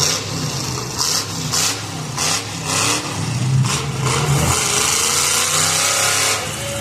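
Demolition derby car engines revving in short repeated bursts, with a longer rush of noise from about four seconds in to past six seconds.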